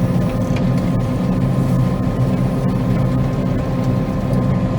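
Combine harvester running steadily while cutting soybeans: a constant engine and machinery drone with a steady whine on top.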